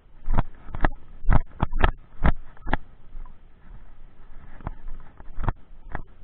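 Raindrops hitting close to the microphone as irregular sharp taps, clustered in the first three seconds and sparser after, over a steady hiss of rain.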